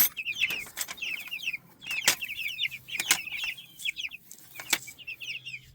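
Cornish Cross chicks peeping constantly in short, high, falling chirps, with a few sharp knocks scattered through.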